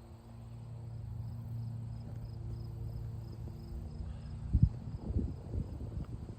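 Crickets chirping in a fast, even rhythm over a steady low hum, with two short low thumps a little past halfway.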